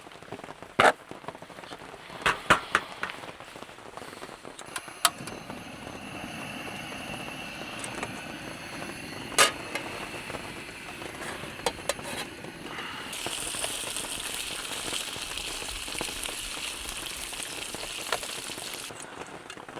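Rain falling, a steady hiss with scattered loud drops ticking sharply close by. The rain grows heavier and brighter for several seconds in the second half, then eases.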